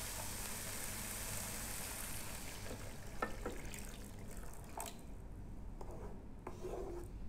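Chicken stock poured from a jug into a hot wok. The frying sizzle dies away as the liquid splashes in, and there are a few knocks, likely from a wooden spatula.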